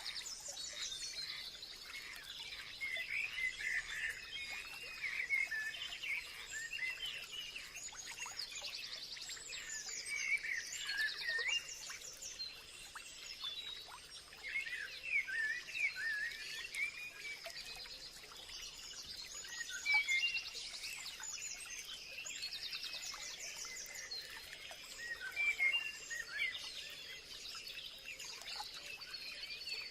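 Several wild birds chirping and singing, with short calls and trills overlapping, over a faint steady high tone.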